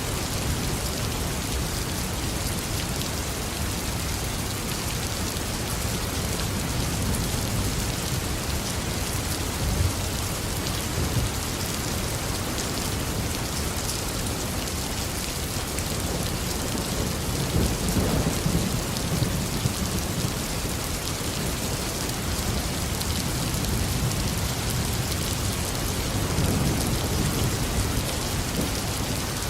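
Tropical rainstorm: heavy rain falling steadily, with low thunder rumbling about two-thirds of the way in and again near the end.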